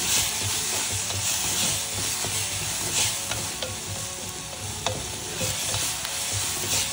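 Diced onions and tomatoes sizzling in hot oil while a wooden spatula stirs them, scraping across the bottom of the pot in repeated strokes.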